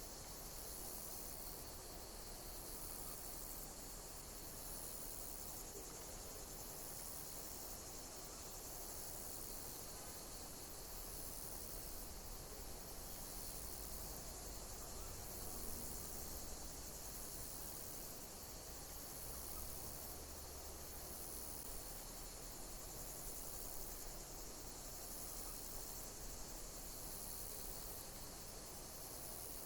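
Insects chirping, likely crickets: a steady high-pitched hiss with a short, high chirp that repeats about every two seconds.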